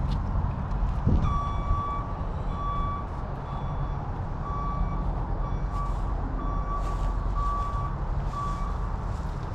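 A vehicle's electronic warning beeper sounding a string of single-pitched beeps of uneven length, from about a second in until near the end, over a steady low rumble.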